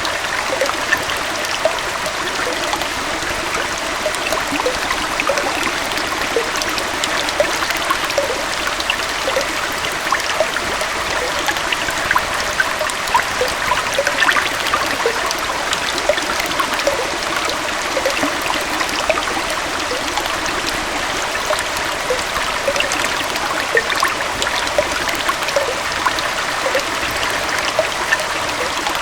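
Small waterfall and stream flowing steadily, a continuous rush of water with many small splashes and trickles.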